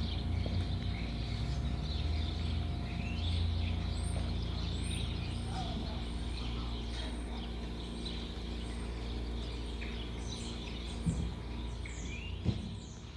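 Small birds chirping in short, high sweeps over a steady low rumble, with two sharp thumps near the end.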